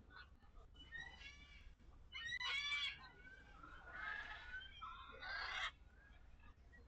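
Domestic fowl calling in a run of harsh, rapid calls, loudest about two seconds in, with a second burst of calls around four to five seconds in.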